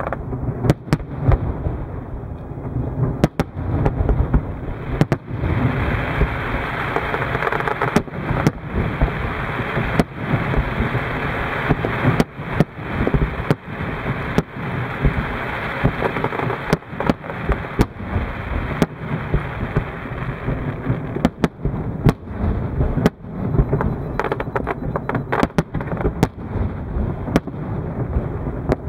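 Fireworks display: frequent sharp bangs of bursting shells with deep rumbling booms, over a dense crackling hiss that swells about five seconds in and thins out in the last few seconds.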